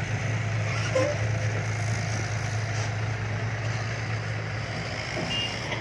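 Diesel dump truck engine running at a steady speed, a low even drone.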